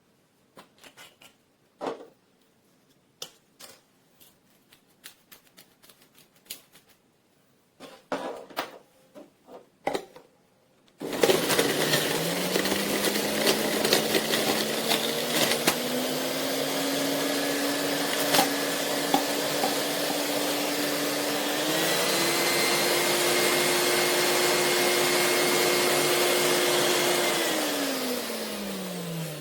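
A few light clicks and knocks, then the JUILIST 400 W centrifugal juicer's motor starts with a rising whine. It runs loud and steady, steps up in pitch twice, and winds down near the end.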